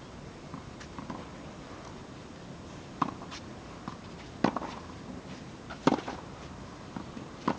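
Tennis balls struck by rackets in a rally: four sharp pops about a second and a half apart, with fainter ticks between them.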